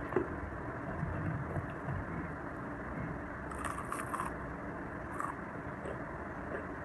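Chewing and crunching of crispy fried battered tempeh (mendoan), with a cluster of crisp crunches a little past halfway and another shortly after. A steady low rumble runs underneath.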